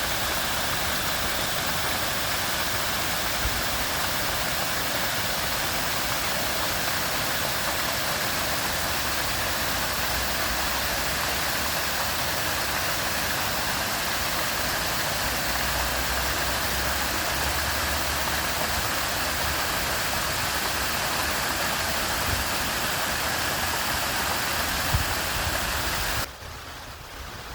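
Steady, even rush of flowing or falling water, as at a spillway or stream, cutting off suddenly near the end.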